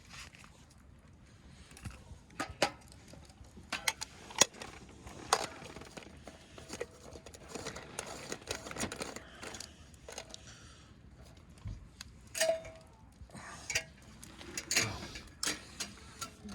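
Cooking gear and utensils being handled: scattered clinks and knocks, one with a brief ring about twelve seconds in.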